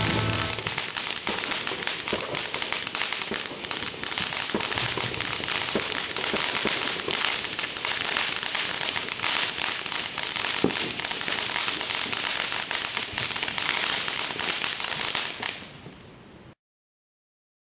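Dense crackling with a steady hiss and scattered sharp pops, fading out near the end.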